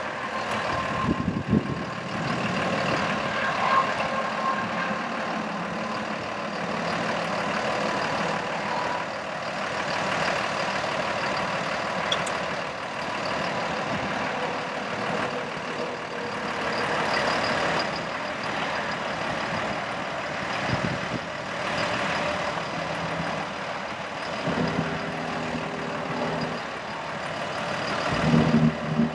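Freightliner M2 bucket truck's diesel engine running steadily with a constant mechanical hiss and faint whine. A low pitched hum comes in briefly near the end.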